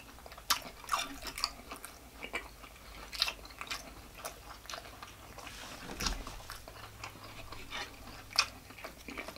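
Close-miked mouth sounds of a person chewing a bite of grilled sausage: irregular wet smacks and clicks.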